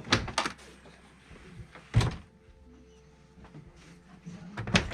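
Airliner overhead stowage bin doors being worked: a couple of sharp clacks at the start, a single heavy thunk about two seconds in as a bin shuts, and another clatter of latching near the end.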